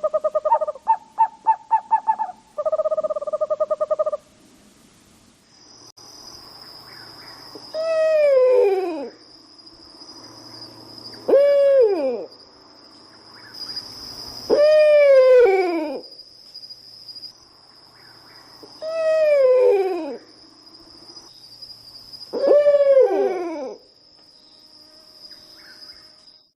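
Owl calling: a rapid monotone trill in the first four seconds, then five descending, quavering whinny calls a few seconds apart. A steady high-pitched tone runs underneath from about five seconds in.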